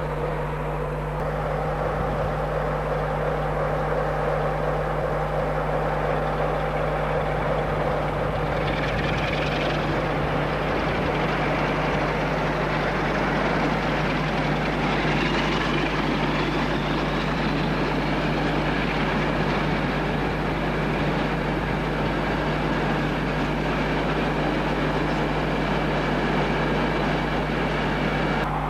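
Railway locomotive running at a station platform, a steady mechanical drone with a low hum, and a whine that rises in pitch about halfway through.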